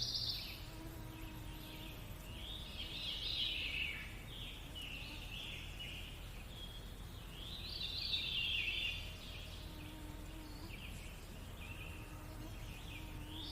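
Birds singing: phrases of song and chirps come back every few seconds, louder about three seconds in, around eight seconds in and again at the end, over a faint steady hiss.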